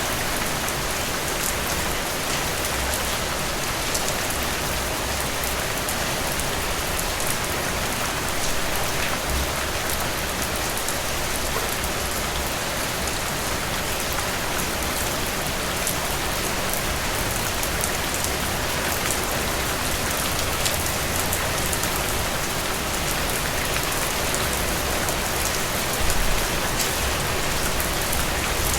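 Steady rain falling through trees: an even hiss with many fine drop ticks, and a short low rumble near the end.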